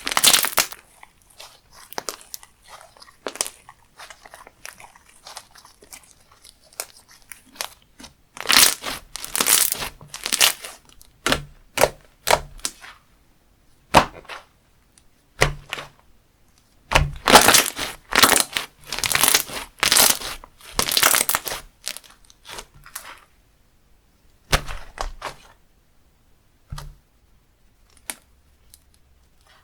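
Slime being squeezed, pressed and stretched by hand, giving bursts of crunchy crackling and small pops. There are two louder spells, one about a third of the way in and a longer one past the middle, with scattered single clicks between them.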